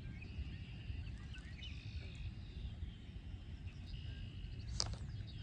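Wind buffeting the microphone in a low steady rumble, with birds chirping and calling in the background and one sharp tick near the end.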